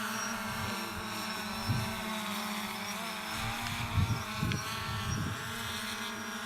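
Electric motor and propeller of a radio-controlled model aircraft running with a steady whine that wavers slightly in pitch, with gusts of wind buffeting the microphone.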